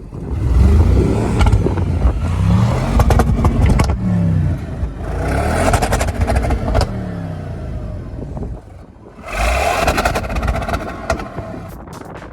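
2015 Audi RS7's twin-turbo 4.0-litre V8 revving up and dropping back three times, with sharp cracks near the top of the first two revs.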